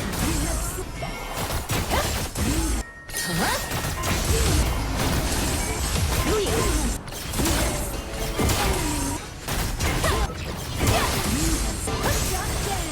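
Coins clinking and clattering against each other in a quick, irregular jumble, over music.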